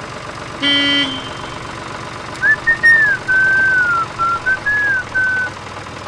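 Tractor engine sound effect running steadily with an even throb, a short horn toot about half a second in, and a whistled tune of several sliding notes from about two and a half seconds in.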